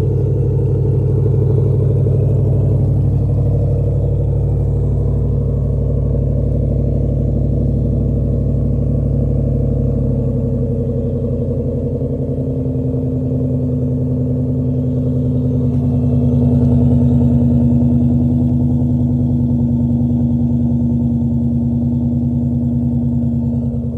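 Ford Mustang V8 running steadily through a Borla Stinger cat-back exhaust with quad tips. Its note shifts slightly about halfway through.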